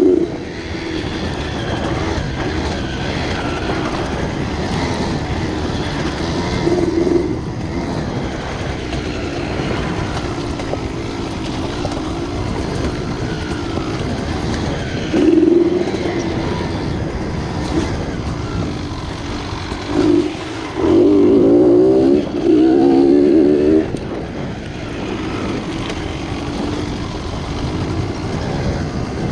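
Dirt bike engine running as it is ridden along a trail, with the throttle opened harder in a short burst about halfway through and in two longer bursts near three-quarters of the way through.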